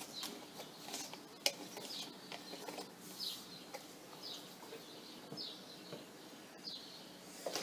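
Faint small bird chirping: a series of short, high, falling chirps, roughly one a second, with a sharp click about a second and a half in.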